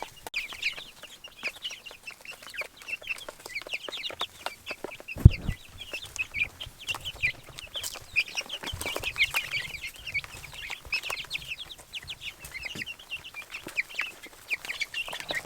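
A flock of young meat chicks peeping constantly, with many short high calls overlapping. A single dull thump comes about five seconds in.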